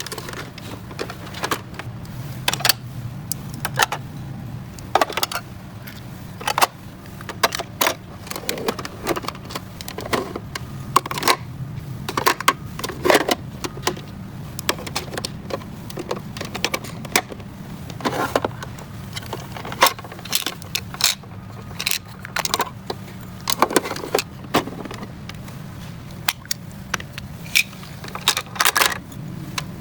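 Small plastic toy pieces of a miniature toy refrigerator clicking, tapping and clinking as they are handled, in irregular sharp clicks throughout, over a steady low hum.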